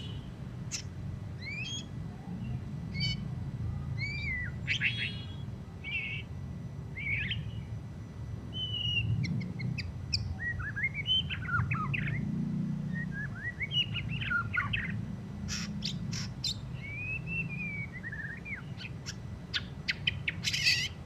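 White-rumped shama (murai batu) singing a varied run of whistled phrases, swooping notes and sharp clicking chips, over a low steady hum. The bird is fresh from its moult and its song is still rough and chattery.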